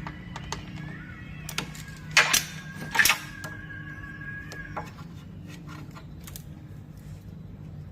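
Metal clicks from hand tools and parts being fitted, with two louder clattering bursts about two and three seconds in, over a steady low hum.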